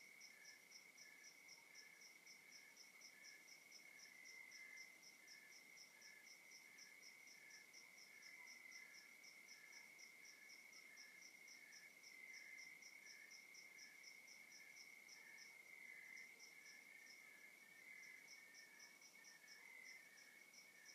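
Faint chorus of crickets calling at night: one insect holding a steady high trill while others chirp in even, rapid pulses, several a second, at different pitches.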